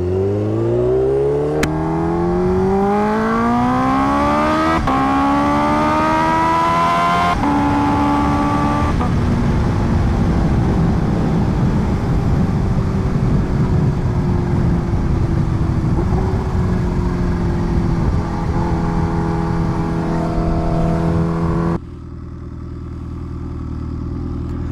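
Kawasaki Ninja H2R's supercharged inline-four pulling hard, its revs rising steeply with a quick upshift about five seconds in. The throttle closes at about nine seconds and the revs fall slowly as the bike slows. Near the end the sound drops suddenly to a lower, steadier engine note.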